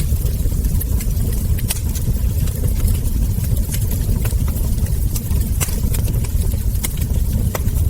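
Wood fire crackling, with frequent sharp, irregular pops and snaps over a steady low rumble.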